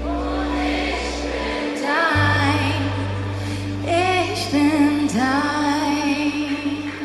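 Live worship band music: a woman's voice and backing voices singing over held low bass notes, the bass cutting off at the very end as the song closes.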